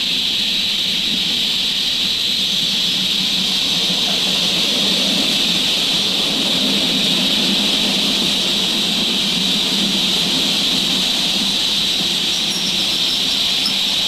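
A train running steadily: an even hiss with a low hum beneath it, with no puffing beat.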